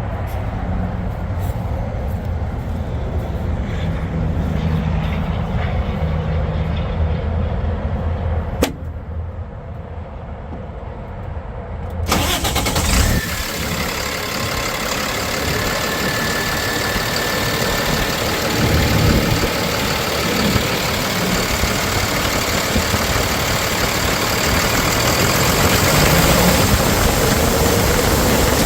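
Cummins 6.7-litre inline-six turbo diesel in a Ford F750 bucket truck. A steady low rumble runs first, then comes a sharp click and a quieter pause. About twelve seconds in the engine starts and then runs loudly at idle, with a slight rise in pitch near the end.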